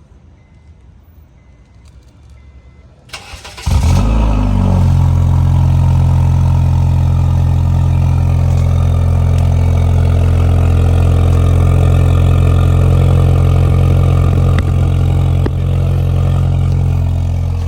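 8th-gen Honda Civic engine started through a newly fitted Spec D Tuning aftermarket exhaust with its silencer insert in. About three seconds in, the starter cranks briefly, the engine catches with a short rev flare, then settles into a loud, steady idle.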